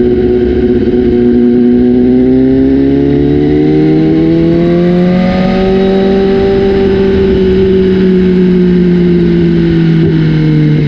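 BMW S1000RR inline-four engine running through a new Austin Racing aftermarket exhaust. The engine note climbs slowly over a few seconds, holds, then eases back down.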